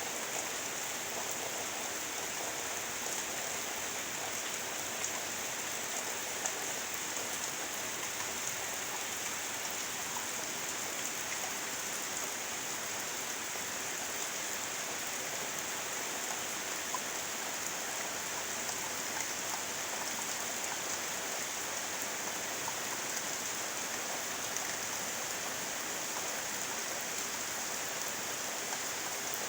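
Steady rain from a tropical storm, an even hiss that does not let up.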